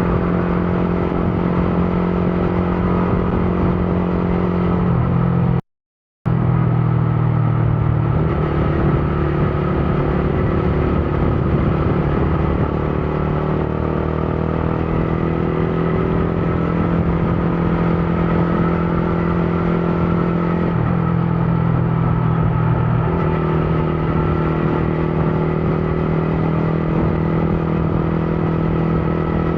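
Motorcycle engine running at a steady cruise, its pitch stepping up and down a few times as the speed changes. The sound cuts out completely for about half a second around six seconds in.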